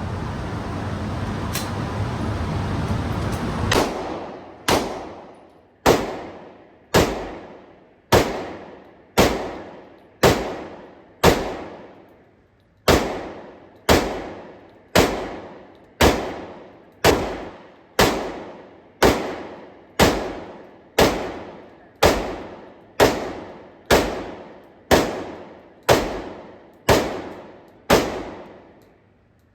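A steady rushing noise for about four seconds, then a firearm fired shot after shot at an even pace of about one a second, each report sharp with a long ringing tail.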